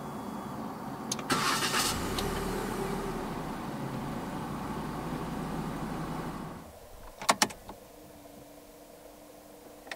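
2022 Proton Saga 1.3's four-cylinder petrol engine is cranked by the starter and catches about a second in, then idles steadily, heard from inside the cabin. It cuts off after several seconds, followed by a few sharp clicks and a faint steady tone.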